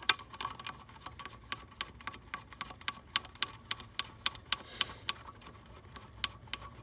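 Light metallic clicks, several a second and uneven in spacing and strength, from a ratchet running in a connecting-rod cap bolt.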